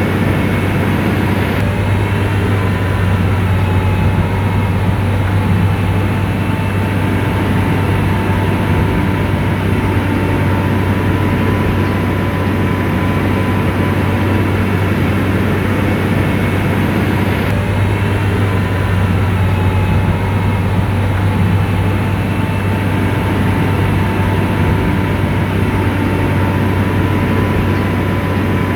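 SDLG motor grader's diesel engine running steadily under load, with a deep steady hum and a faint whine above it.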